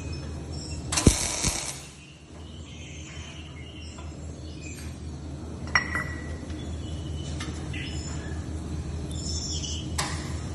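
A short noisy rush lasting about a second, then a sharp metal clink with a brief ring and another click near the end, over a steady low workshop hum.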